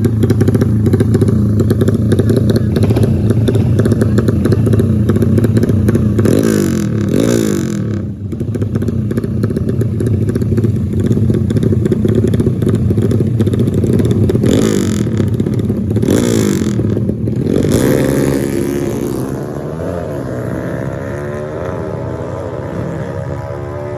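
Dirt bike engine running on a wet trail, revving up and down twice; in the last few seconds the engine pitch rises and falls in quick glides as it accelerates.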